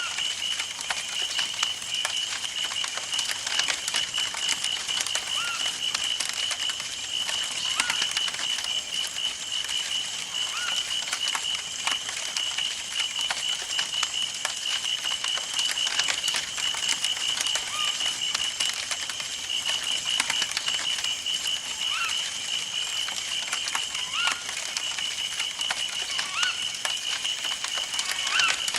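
Campfire burning, crackling and popping with many small irregular snaps, over a steady high-pitched pulsing trill and a few short chirps.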